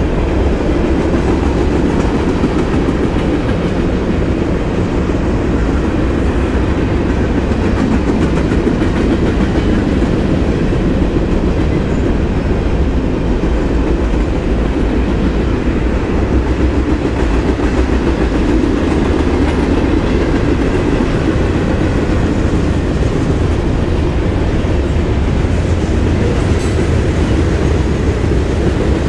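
Freight cars of a CSX train rolling past: a steady rumble of steel wheels on the rails, with a constant clickety-clack of wheels over the rail joints.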